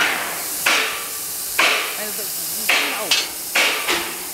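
Steady hiss of a CNC plasma cutter, broken by about seven sharp knocks at uneven intervals, each trailing off in a fading hiss.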